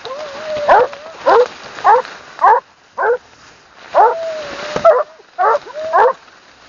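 Hunting dogs baying at wild boar held at bay: a steady run of loud barks about two a second, a couple of them drawn out into short howls.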